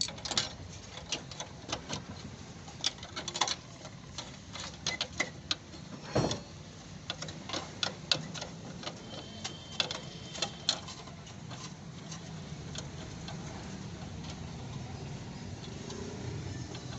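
Hammer strikes on car-body sheet metal during dent repair: irregular sharp taps and knocks that stop about eleven seconds in, over a low steady hum.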